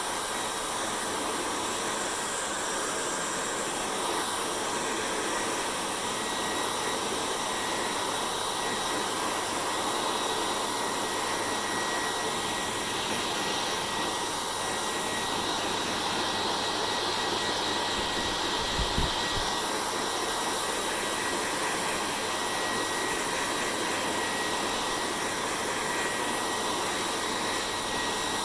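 Hair dryer running steadily: an even blowing rush with a faint high steady tone over it. A brief low thump comes about two-thirds of the way through.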